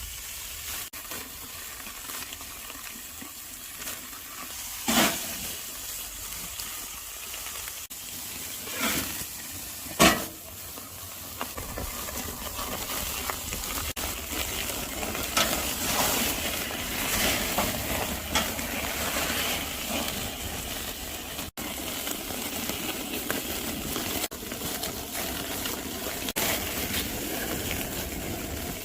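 Tomahawk ribeye steak sizzling and crackling over a charcoal grill as the fat renders. A few sharp knocks come through, the loudest about ten seconds in.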